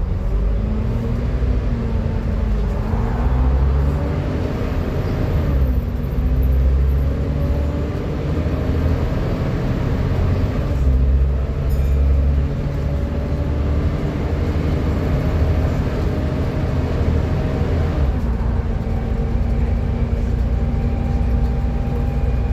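Volvo B7TL double-decker bus running with a loud 'hoover' whine over the engine, the pitch rising and falling as it drives, then holding steady from about 18 seconds in.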